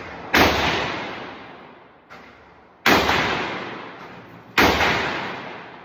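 Gunshots at a shooting range: three loud shots about two seconds apart, with a fainter shot between the first two. Each shot is followed by a long echoing tail that fades over a second or more.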